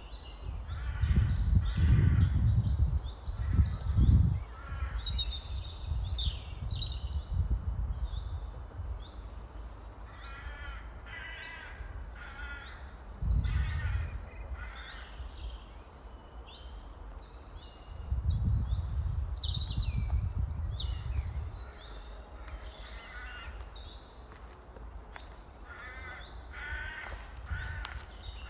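Outdoor birds calling throughout: harsh, repeated cawing calls mixed with higher chirps, over low gusts of rumbling that come and go, loudest near the start and again about two-thirds of the way in.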